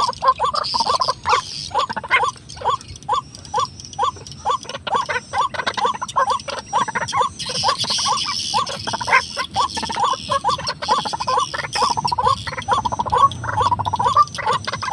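A bird's short call repeated steadily, about two notes a second, with a steady high hiss behind it.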